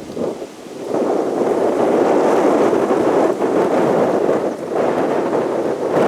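Jet aircraft engine noise, a rough steady rush that swells about a second in and then holds.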